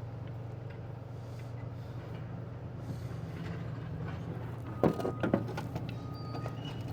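Hand tools working air fittings loose from a truck's air brake chamber: a few sharp metallic clinks about five seconds in, over a steady low hum.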